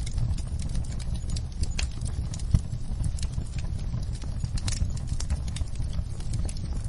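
Wood logs burning in a fireplace, crackling with irregular sharp pops over a low steady rumble of the fire, with one louder pop about two and a half seconds in.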